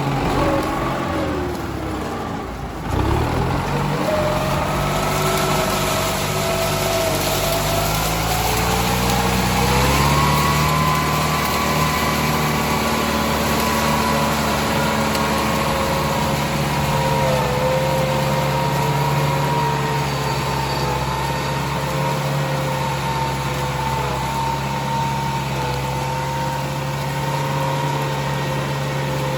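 Tractor engine running, its pitch climbing over a few seconds about a third of the way through and then holding steady.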